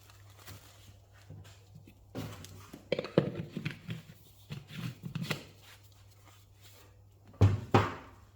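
Knocks, clatter and rustling of parts being handled on a workbench over a low steady hum, with two louder knocks close together near the end.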